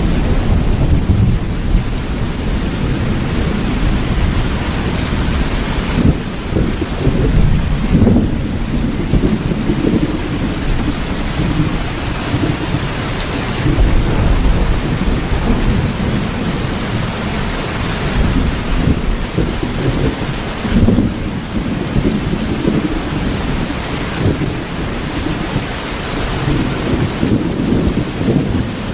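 Steady rain with low rumbles of thunder that swell and fade.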